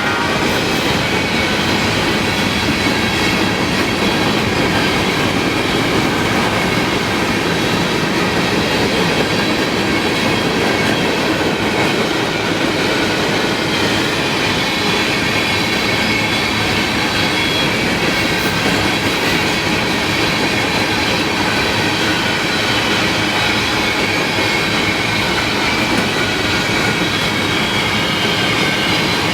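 Freight train of grain cars rolling past close by: a steady, loud rolling rumble of wheels on rail, with a thin high-pitched squeal from the wheels running through it.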